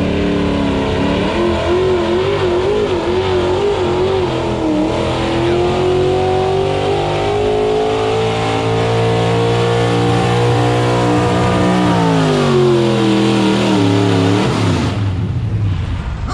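Pulling truck's engine at full throttle during a truck-pull run: the pitch wavers at first, then climbs steadily for several seconds, falls off as the throttle comes off, and the engine sound cuts away near the end.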